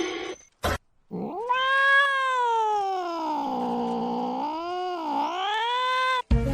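A cat yowling in one long drawn-out caterwaul of about five seconds, starting about a second in; its pitch sinks slowly, dips briefly near the end and rises again before it cuts off abruptly.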